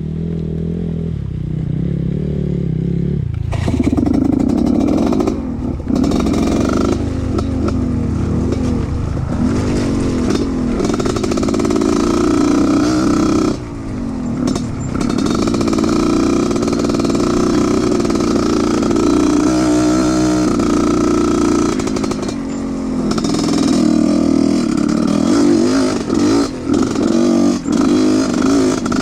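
Off-road trail motorcycle engine running hard and revving, its pitch rising and falling, with the throttle briefly chopped several times, about three, six and fourteen seconds in and again near the end.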